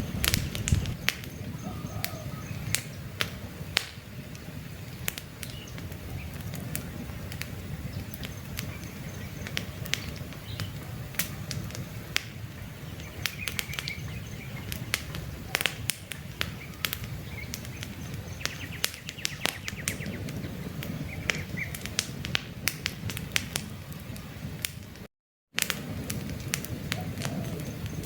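Wood campfire crackling, with frequent sharp irregular pops over a steady low rumble of the flames, and a few faint bird chirps behind it. The sound cuts out for about half a second near the end.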